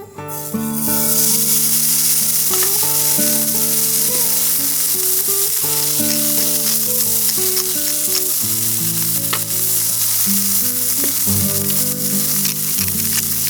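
Steak sizzling in a hot frying pan. The sizzle starts suddenly about half a second in, as the meat goes into the pan, then holds steady and loud.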